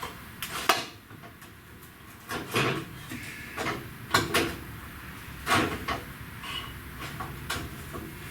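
Irregular knocks, clunks and short scrapes as a part is wrestled loose and pulled out of a truck's front end, about one every second or so.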